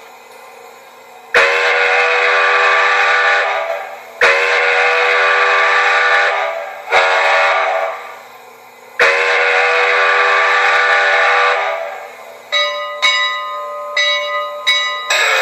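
Steam whistle sound of an HO scale model steam locomotive's TCS WOW sound decoder, sounding a chord of several tones: two long blasts, a short one and another long one, the grade-crossing signal, then a quick run of short toots near the end.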